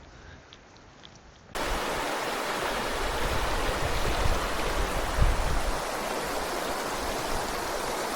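Rushing river water: a steady, even hiss that cuts in suddenly about a second and a half in, with low wind buffeting on the microphone underneath.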